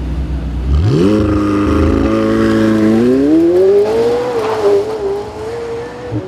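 A supercar engine accelerating hard from a low rumble. Its note climbs steeply about a second in and holds, then climbs again to a high, steady pitch, and drops a step near the end.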